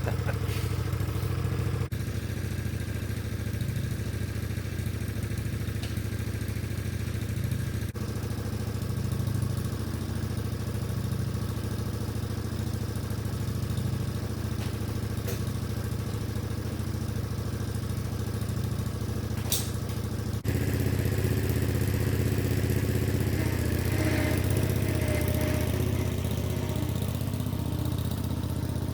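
Small engine fitted with open exhaust stacks idling steadily, running after sitting unused since winter. It gets louder about two-thirds of the way through, with a brief click or clatter just before.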